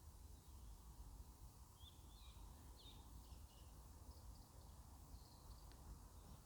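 Faint distant birds calling: a few short chirps over a low, steady background rumble, near silence overall.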